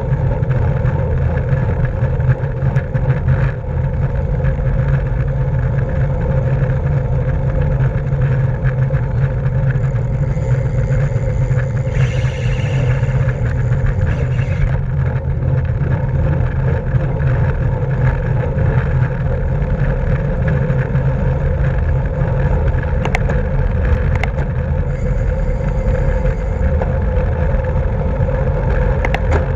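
Steady rushing wind noise and road rumble from a racing bicycle at speed, heavy in the low end, as picked up by a camera mounted on the bike.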